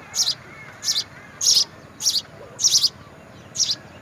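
A small bird chirping repeatedly, short high chirps about every half second, with fainter, lower arching calls under them near the start.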